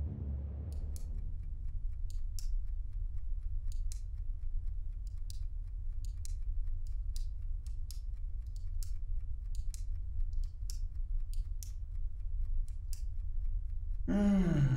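Retractable ballpoint pen being clicked over and over at an uneven pace, a couple of clicks a second, over a steady low hum. A brief falling low tone comes near the end.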